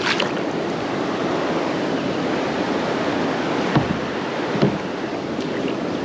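Steady rush of creek water running through rough water, with two brief knocks about four seconds in.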